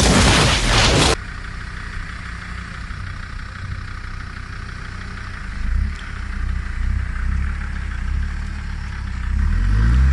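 A loud explosion noise that cuts off abruptly about a second in. Then a Land Rover Defender's engine runs steadily at low revs while the vehicle sits bogged in mud on a recovery strap, rising in revs near the end.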